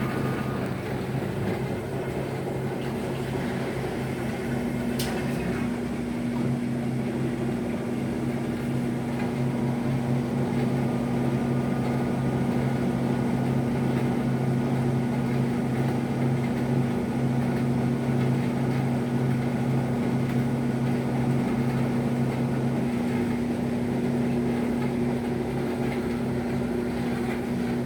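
Electrolux LF75 washing machine running with a steady motor hum, quiet for a washer. A second steady tone joins about three seconds in, and there is a single click around five seconds in.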